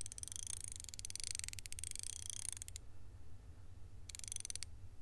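Ratchet spanner turning, a sound effect: faint, rapid mechanical clicking in bursts, the first stopping about three seconds in and a short second burst about a second later, over a steady low hum.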